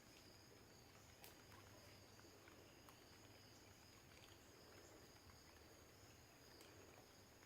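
Near silence: faint outdoor ambience, with a steady faint high-pitched trill of insects and a small click about a second in.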